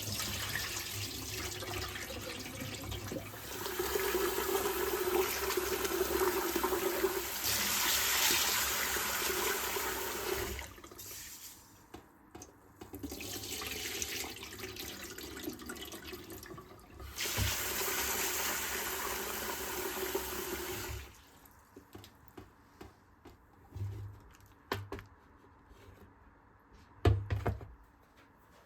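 Water running from a tap into a sink in three spells, stopping for good about 21 seconds in. A few knocks and clicks follow, the loudest near the end.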